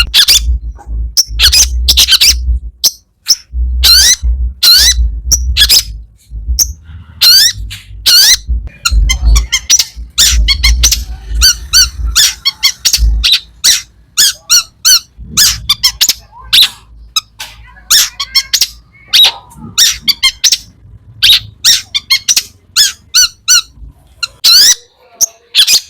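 Long-tailed shrike (cendet) singing hard, a rapid run of short, sharp calls and chatter full of mimicked phrases of other birds. A low hum sits underneath for about the first half.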